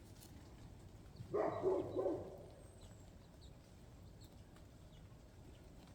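A chicken's brief call, heard once about a second and a half in, with faint small ticks around it.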